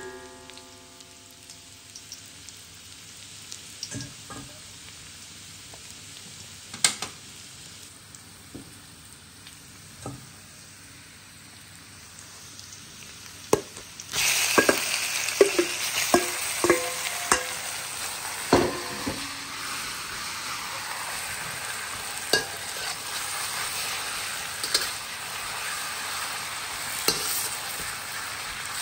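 Sliced ginger frying gently in oil in a wok, with a few taps of a spatula. About halfway through, sliced raw beef is tipped in and the sizzle jumps to a loud hiss. Several ringing metal clanks against the wok follow, then steady frying as the beef is stirred.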